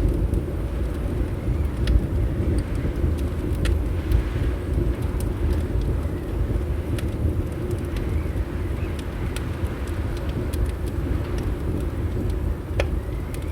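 Wood fire crackling, with scattered sharp pops and snaps a second or so apart, over a steady low rumble of wind.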